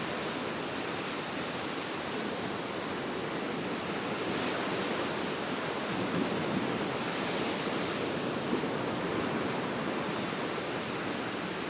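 Steady rushing noise with no pitch or rhythm.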